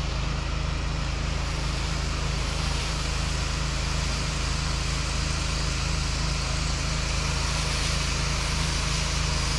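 Pressure washer engine running steadily under load, with the hiss of water spraying from the wand as sodium hypochlorite is applied through a V-jet tip; the hiss brightens about a second in.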